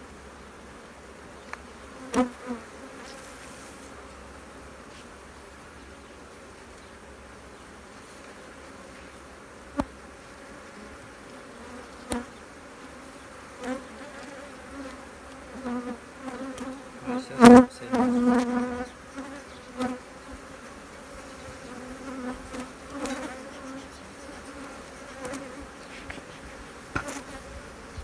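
Honeybees buzzing around an opened hive during a frame-by-frame inspection: a steady hum that swells as individual bees fly close past, loudest a little past halfway. A few short sharp clicks are heard.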